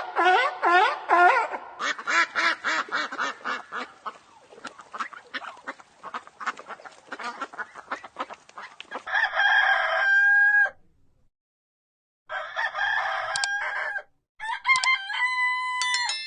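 Chickens clucking in a rapid run that fades over several seconds, then a rooster crowing three times, each crow ending in a long held note.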